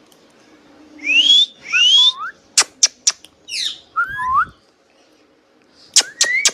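Indian ringneck parakeet whistling and clicking: two rising whistles about a second in, then three sharp clicks, a falling squeak and a short rising chirp, and after a short pause more clicks with a rising note near the end.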